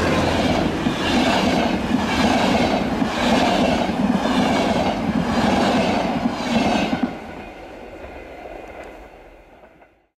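Train passing, its wheels clattering over the rail joints in an even rhythm of about three beats every two seconds; about seven seconds in it drops away, fading to nothing near the end.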